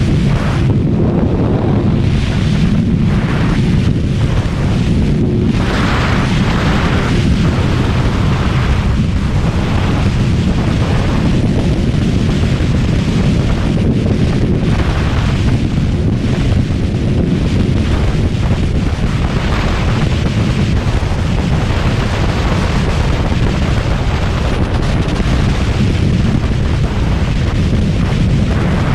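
Kawasaki ZX-636R's inline-four engine running while riding, with heavy wind rushing over the microphone.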